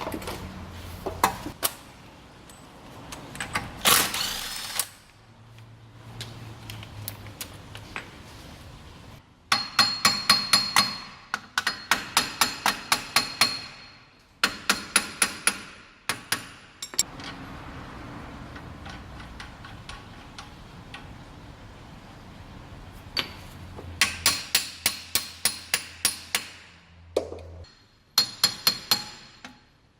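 Hammer blows on steel, about four or five a second in runs of a couple of seconds, each strike ringing, with a few single knocks and pauses between the runs; typical of knocking a wheel hub bearing apart by hand without special tools.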